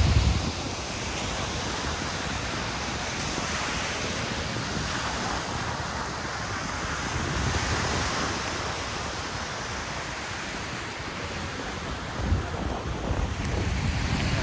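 Waves breaking and washing up on a sandy beach: a steady rushing hiss that swells and ebbs every few seconds.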